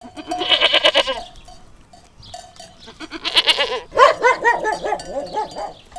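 Goats bleating: two long quavering bleats, then a run of shorter ones near the end.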